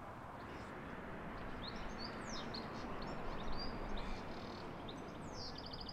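Small birds chirping, with short high calls that sweep up and down, over a steady outdoor background noise; one bird gives a fast trill near the end.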